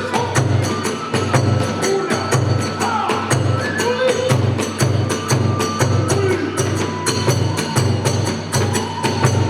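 Kagura accompaniment: a drum beating a steady rhythm about twice a second, with small hand cymbals clashing and a flute playing a gliding melody.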